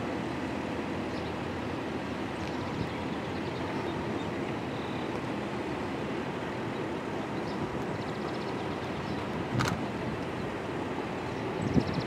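Low, steady rumble of a train approaching in the distance, with a sharp click about nine and a half seconds in.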